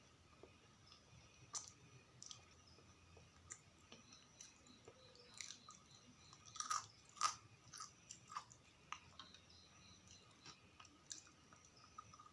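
Close-miked chewing of sausages and fries: soft, wet mouth sounds with sharp crunchy clicks. The loudest bites come in a cluster about six to seven seconds in.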